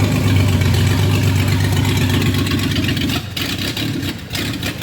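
Junkyard replacement engine in a Toyota Hilux running steadily on its first startup. About three seconds in the engine sound drops away and a run of sharp, irregular clicks follows.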